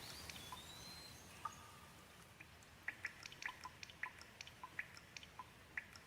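Gentle rain falling with a soft steady hiss, single drops ticking and dripping irregularly, more of them in the second half.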